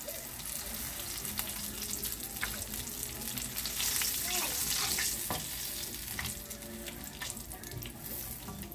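Flour-dredged chicken wings sizzling in hot oil in a wok. A metal spatula scrapes and clicks against the pan as the pieces are turned and lifted out once fried.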